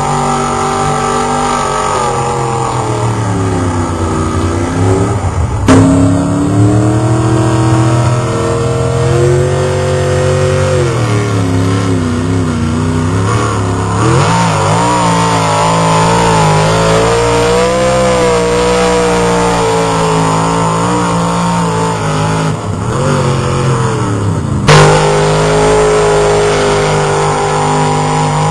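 Engine of a competition pulling truck running hard, its pitch rising and falling again and again as it revs. Two sharp loud bangs cut through, about six seconds in and a few seconds before the end.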